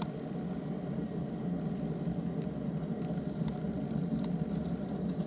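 Steady low rumbling hum, with a couple of faint clicks near the end and no birdsong.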